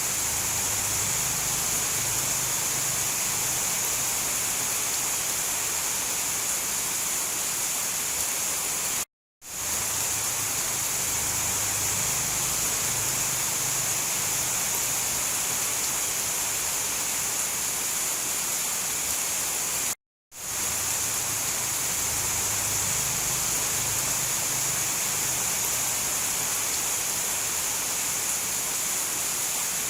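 Steady heavy rain, an even hiss, from a looped recording that cuts out to silence for a moment twice, about nine and twenty seconds in.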